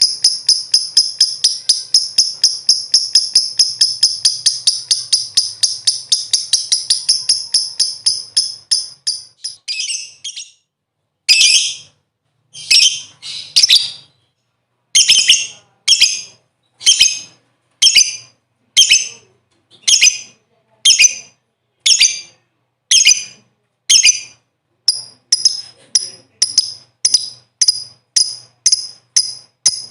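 Lovebird calling: a long, fast chattering trill of shrill notes that fades out. After a short pause come single sharp shrieks about once a second, which quicken to about two a second near the end.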